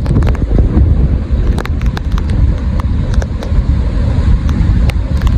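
Strong wind buffeting the microphone in a thunderstorm, with scattered sharp ticks of hailstones striking nearby at irregular intervals.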